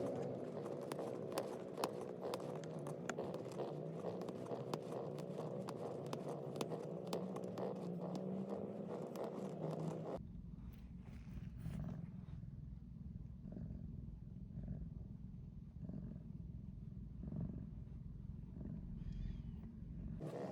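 A Siamese cat kneading against a plastic pet carrier, its claws scraping and clicking in a rapid, dense patter. About halfway through, this gives way to a low, close purr that swells and fades about once a second.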